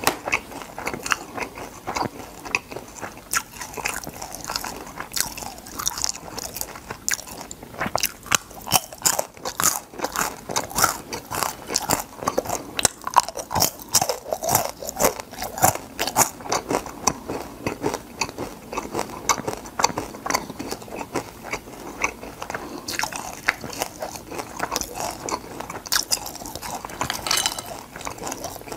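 Crispy fried crab being bitten and chewed close to the microphone: a dense, irregular run of crisp crunches going on without pause.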